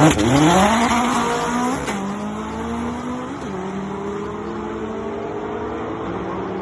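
Performance car engine pulling hard from a loud launch through the gears. The pitch climbs for about two seconds, drops at an upshift and climbs again, then drops at a second shift about three and a half seconds in. After that it holds steadier while slowly fading.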